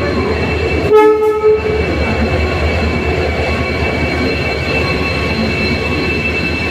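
Express passenger train rolling into a station with a steady rumble and thin high-pitched squeal from the wheels or brakes. A short, loud train horn blast sounds about a second in.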